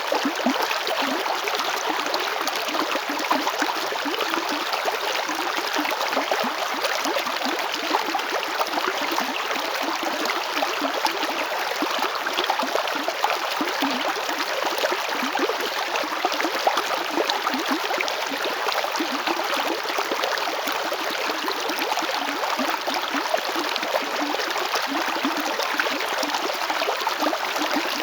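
River water flowing steadily over rocks: a constant rushing babble with small splashes and gurgles, without pauses or changes.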